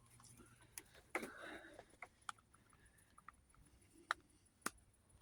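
Near silence broken by a few faint, scattered clicks and taps: small handling knocks while the vacuum is worked on.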